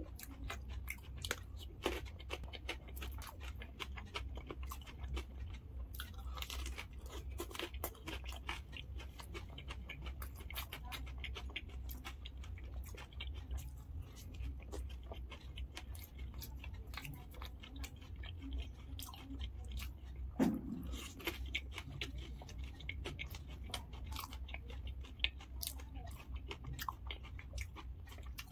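Close-up chewing and crunching of dahi puri, the crisp fried puri shells filled with curd, sev and pomegranate seeds, as a stream of small crackles and wet mouth sounds over a steady low hum.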